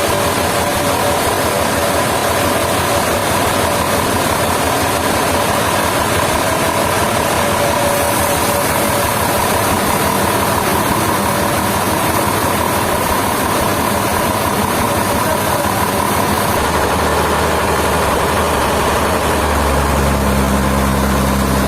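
Sawmill machinery running steadily with a constant whine. About three-quarters of the way in, a deeper engine hum comes in and grows louder toward the end.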